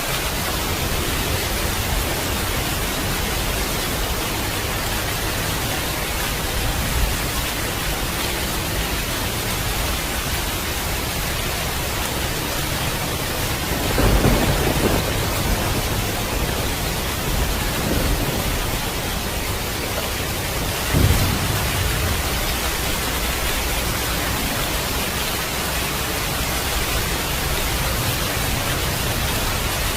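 Steady heavy rain with low thunder rumbles, the loudest about halfway through and again about seven seconds later.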